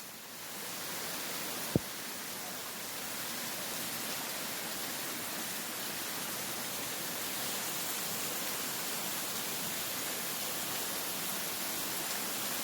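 Steady, even rushing noise outdoors, with a single sharp click about two seconds in.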